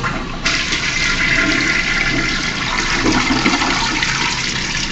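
Crane Plumbing toilet flushing: a rush of water sets in about half a second in and goes on steadily.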